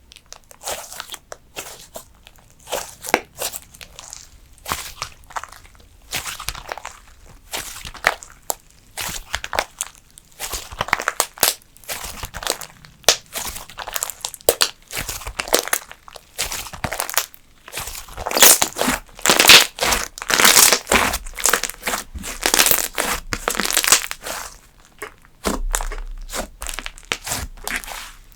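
Slime being squeezed, pressed and kneaded by hand, giving irregular crunchy, crackling squishes that grow louder and denser in the second half.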